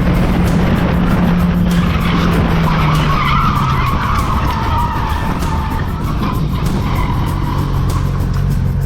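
Car tyres squealing in a long skid, a wavering screech that fades out about seven seconds in, over a steady low drone.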